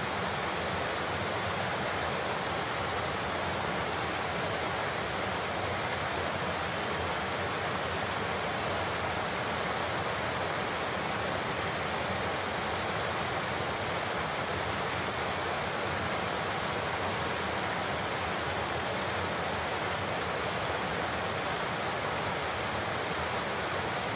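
Large waterfall, water falling and crashing in a steady, unbroken rush.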